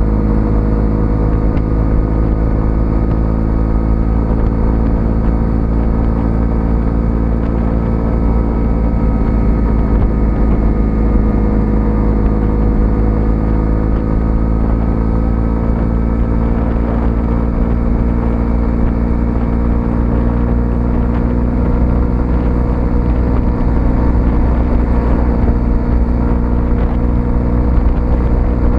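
Small-displacement 125cc motorcycle engine running at a steady cruise. Its pitch dips slightly in the middle and comes back up, as with small changes of throttle.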